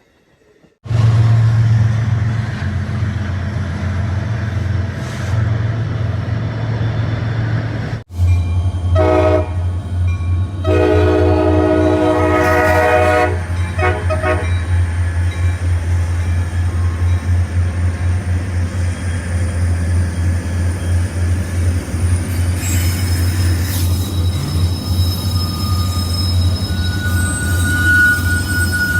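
A train rumbling past, sounding its horn about nine seconds in: a short blast followed by a longer one. The sound drops out for an instant just before the horn. Near the end, thin high steady tones ring over the rumble, like wheels squealing on the rails.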